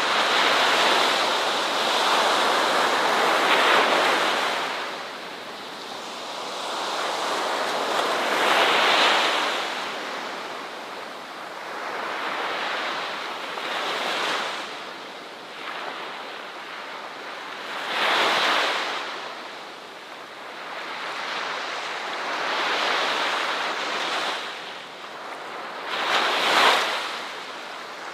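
Ocean surf breaking on a shore. It comes as surges of rushing water that swell and fade every few seconds, and one of the sharpest surges comes near the end.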